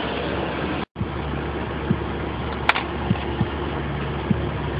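Pickup truck engine idling steadily, cut off for an instant about a second in, with a few faint clicks in the second half.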